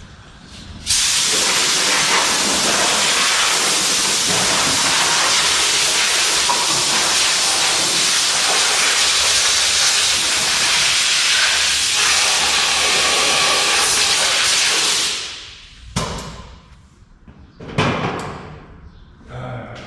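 A pressurised jet hissing loudly and steadily. It starts about a second in and stops about fifteen seconds in, and a few knocks follow near the end.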